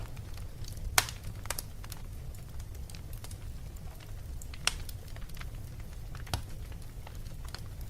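Wood fire in a fireplace crackling: a low steady rumble with irregular sharp pops and snaps, the loudest about a second in and again just past halfway.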